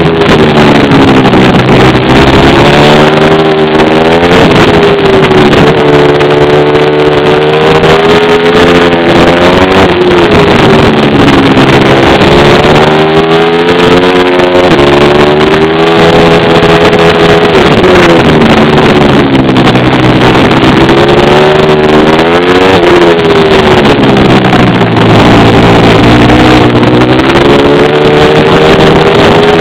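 Pit bike engine being ridden hard, its pitch climbing as it revs up and dropping off again every few seconds through the gears and corners. Loud and distorted.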